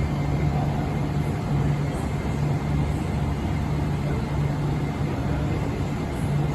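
Train running, a steady low rumble with no breaks.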